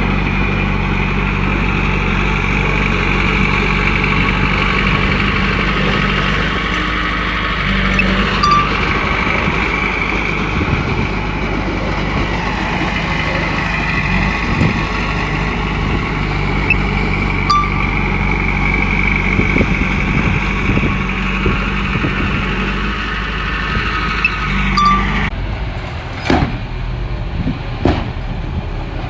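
Komatsu crawler bulldozer's diesel engine running steadily under load, with a high whine that slowly rises and falls and a few sharp metallic clanks. Near the end the engine's steady low note drops off suddenly and two more clanks follow.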